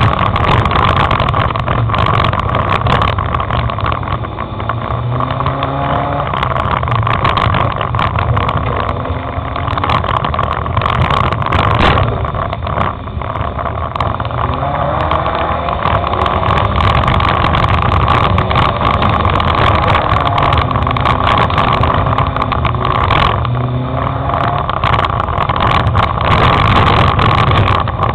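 Race car engine heard from on board, revving up and dropping back repeatedly as the car accelerates and changes gear around a dirt circuit. Frequent sharp knocks and rattles from the bodywork run through it.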